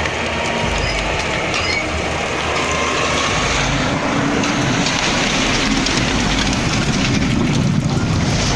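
A heavy vehicle or machine running loudly and steadily, with dense rattling and clatter.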